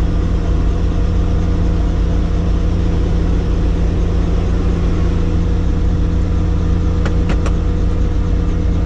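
Helicopter in flight: a loud, steady drone of rotor and engine with several steady hum tones, and two brief clicks about seven seconds in.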